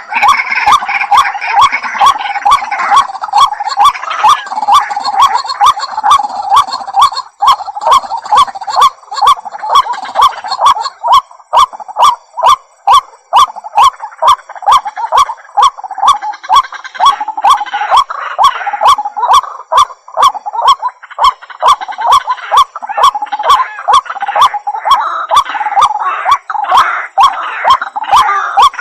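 White-breasted waterhen calling: a long, unbroken series of harsh, repeated notes at about two to three a second.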